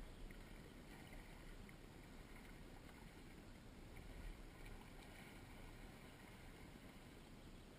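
Near silence: a faint steady hiss with a low rumble, with no distinct splashes or knocks.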